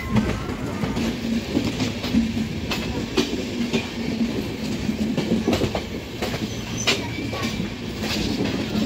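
Passenger train running along the track, heard from its open doorway. Steady wheel-on-rail rumble is broken by frequent irregular clicks and clacks over the rail joints, with another train running close on the next track.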